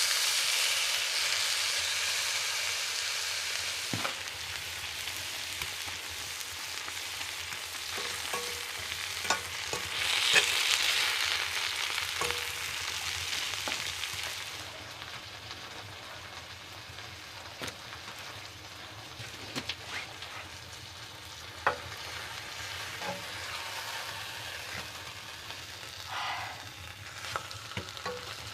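Food frying in a pan, a steady sizzle that swells near the start and again about ten seconds in, with scattered sharp ticks and pops.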